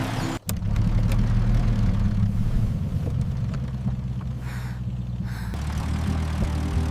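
A vehicle engine's steady low rumble, dropping to a deeper hum about five and a half seconds in.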